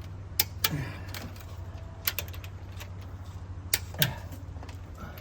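Several sharp, irregularly spaced metallic clicks from a wrench and socket on a Land Rover Discovery II's cylinder head bolts during a final torque pass at 66, over a steady low hum.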